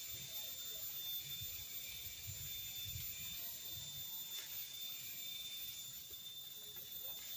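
Steady high-pitched insect drone from forest insects such as crickets or cicadas, with a faint low rumble underneath.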